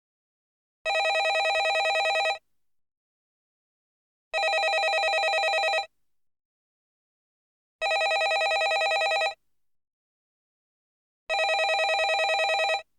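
Landline telephone ringing: four rings of about a second and a half each, evenly spaced with about two seconds of silence between them.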